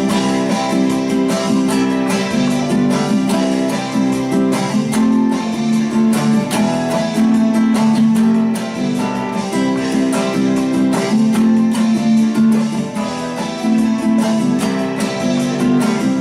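Acoustic guitar strumming chords in a steady rhythmic strumming pattern, with no singing.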